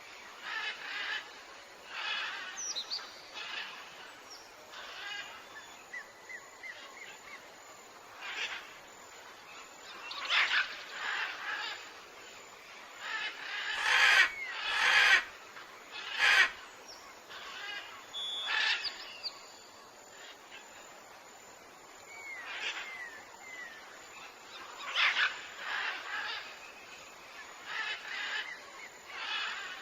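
Birds calling in a forest: a scattered series of short chirps and brief whistled glides. Three louder, sharper sounds come about halfway through.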